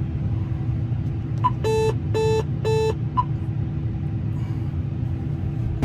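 Steady low rumble of a combine's engine and air conditioning heard inside the cab, with three short electronic beeps in quick succession about two seconds in.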